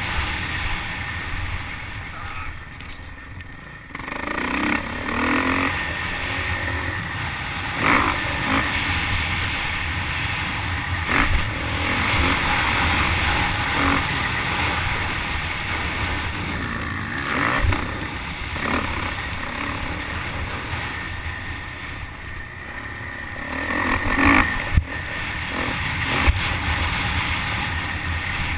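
Dirt bike engine revving and easing off with heavy wind rush, heard through a helmet-mounted camera while riding a motocross track. The engine eases off briefly a few seconds in, and sharp knocks come every few seconds.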